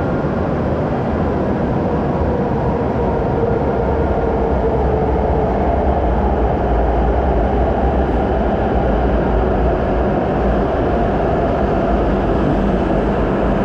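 Steady low rumble and hum of a Hokuriku Shinkansen train standing at a covered station platform, with a faint steady tone over the noise.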